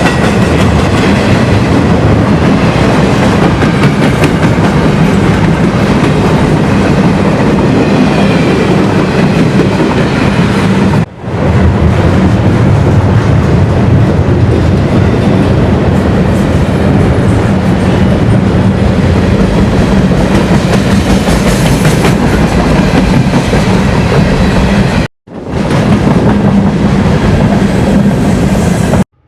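A train passing close by, its cars giving a loud, steady rumble with wheel clatter on the rails. It breaks off briefly twice and cuts off just before the end.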